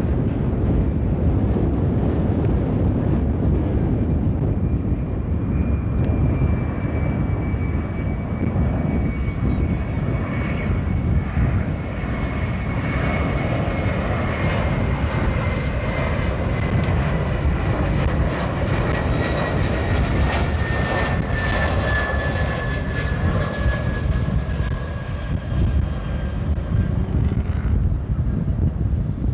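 Jet airliner passing: a steady low engine rumble with a high whine that slowly falls in pitch and fades out near the end.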